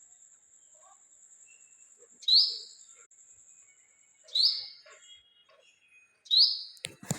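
A bird repeating a short, sharp call three times, about two seconds apart, with a few clicks near the end.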